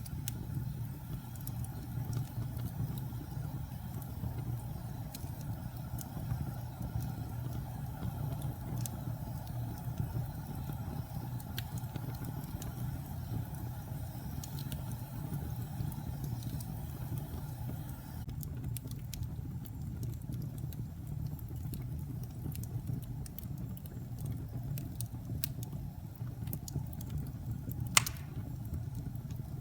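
Wood fire burning in a fireplace: a steady low roar of flames with scattered crackles and pops, and one sharp pop much louder than the rest near the end.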